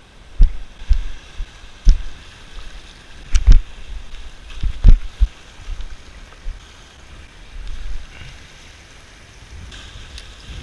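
Gale-force wind buffeting the microphone in irregular low thumps, strongest in the first five seconds, over a steady hiss of wind.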